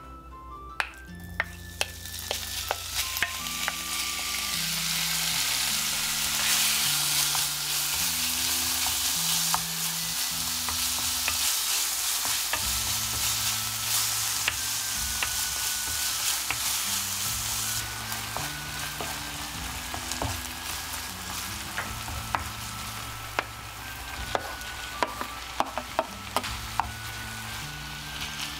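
Marinated minced beef sizzling in hot oil in a frying pan, building up over the first few seconds. A wooden spatula stirs it, clicking and scraping against the pan. Soft background music plays underneath.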